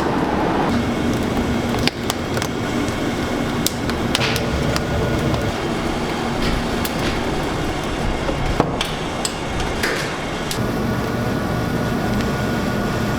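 Scattered knocks and clinks of kitchen work, over a steady background hum.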